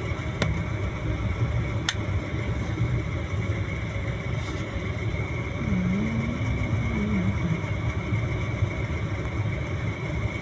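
Steady low rumble and hiss of a train, heard from on board. There are two sharp clicks in the first couple of seconds and a brief wavering tone about six seconds in.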